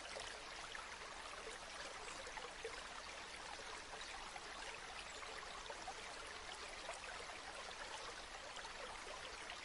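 River water flowing over stones: a steady, even rush with fine bubbling.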